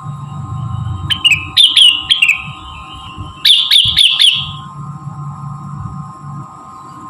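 Cucak rengganis songbird calling as a lure track: two quick bursts of short, sharp falling chirps, about five notes about a second in and four more in the middle, over a steady background hum.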